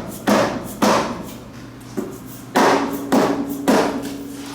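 A small hammer tapping on the front cover of a Honda CR-V automatic transmission case to loosen it from the housing. About six sharp blows come in two groups, with a gap of about a second between them.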